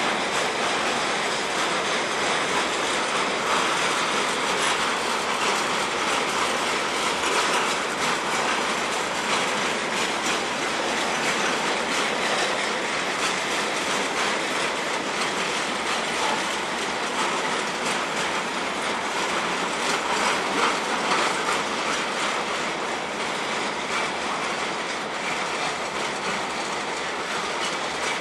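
Freight train of tank wagons rolling steadily past, a continuous rumble and rush of wheels on rail with repeated clicks over the rail joints.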